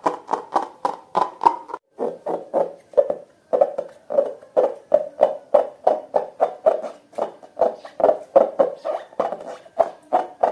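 Slime being squeezed and pressed by hand, a steady run of wet squelches and pops about three to four a second, with a short pause about two seconds in.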